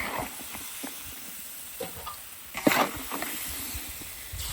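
Cooked pig-head meat hissing in a hot wok, with a metal spatula scraping and knocking against the pan as the meat is shoveled out, the sharpest knock about two and a half seconds in.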